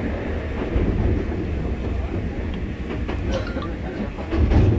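An Enoshima Electric Railway train running along the track: a steady low rumble with occasional wheel clicks, swelling louder near the end.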